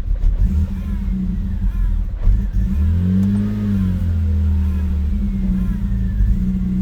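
BMW 528i (E39) 2.8-litre inline-six engine idling roughly, its revs swelling up and falling back about three seconds in. The owner suspects the idle air control valve or an O2 sensor.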